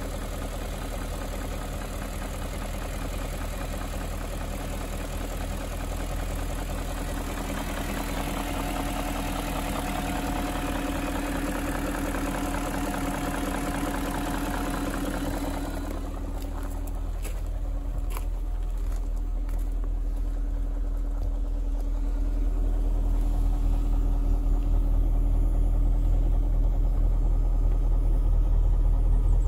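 BMW 740i E38 4.4-litre V8 idling on a cold start, with the electric secondary air pump whining as it blows air into the exhaust for emissions, a normal sound after a cold start. About sixteen seconds in the whine and hiss cut off, leaving the steady idle, and a low rumble grows toward the end.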